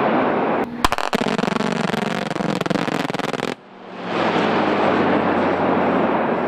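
About three seconds of rapid crackling gunfire from a live-fire exercise, between spells of loud, steady rushing noise; the gunfire starts sharply and cuts off suddenly.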